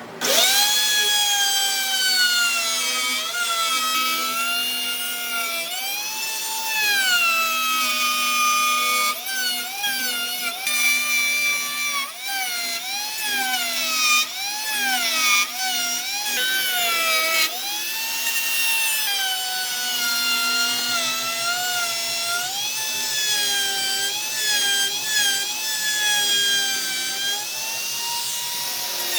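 High-speed power tool motor starting up and whining, its pitch dipping and recovering over and over as it bears into the wood and eases off.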